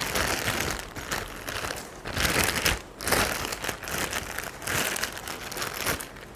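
Plastic packaging crinkling and rustling in irregular bursts as it is handled and pulled off a washing machine's inlet hose.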